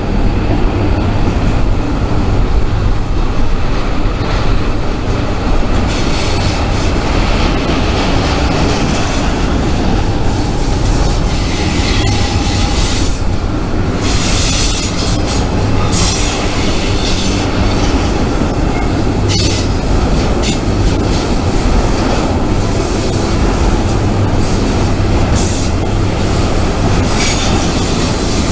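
Freight train rolling past at close range: a loud, steady low rumble of cars and locomotives, with high-pitched wheel squeal and rail clatter coming and going.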